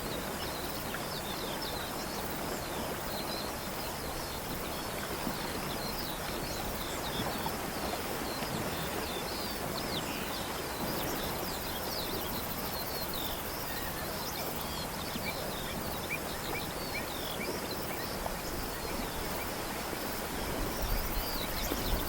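Birds chirping and singing, many short calls one after another, over a steady outdoor background hiss.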